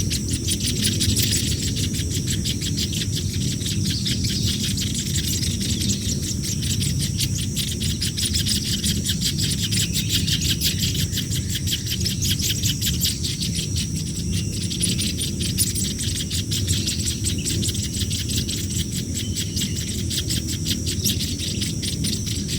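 Hungry nestlings begging: a continuous, very rapid, high-pitched chittering buzz that keeps up without a break.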